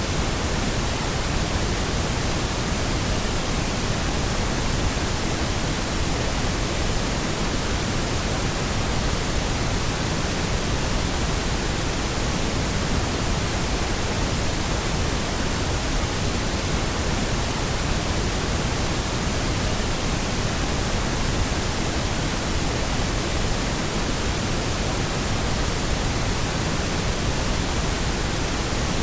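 Steady synthetic pink noise: an even, unchanging hiss with no pitch or events.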